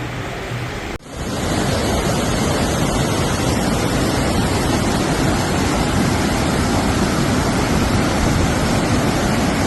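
Loud steady rushing noise of fast-flowing floodwater, starting abruptly about a second in.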